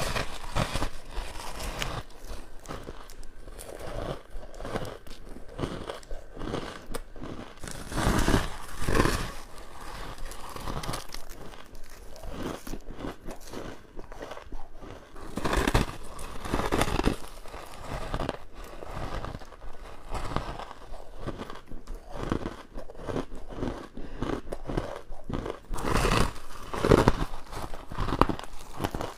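Close-up crunching as a person bites into and chews hard frost and crushed ice, a dense run of crisp, crackling crunches with louder bursts of bites several times.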